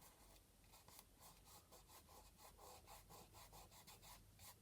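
Faint rubbing of dried masking fluid off a painted canvas, in quick repeated strokes.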